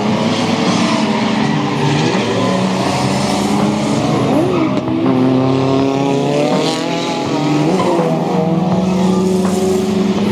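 Drift car's Ford Barra inline-six revving up and down hard, over the squeal of tyres sliding.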